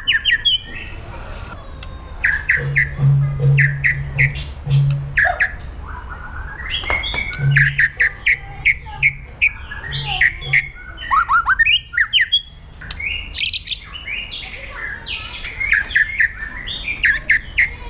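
White-rumped shama singing: a fast, varied string of whistled glides, rapid repeated notes and harsh rattling calls.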